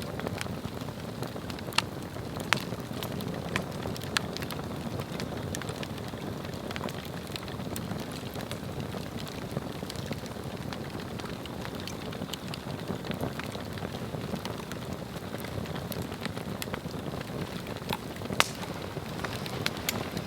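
Swedish torch (an upright log cut with slots and burning from the inside) burning, with a steady rush of flame and scattered sharp crackles and pops; the loudest snap comes near the end.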